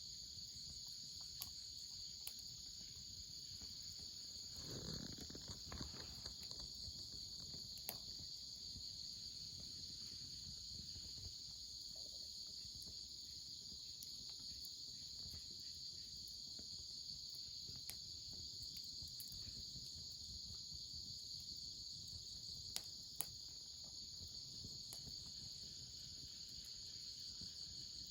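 A steady, high-pitched chorus of insects chirring, with a few sharp pops from a crackling wood fire and a brief rustle about five seconds in.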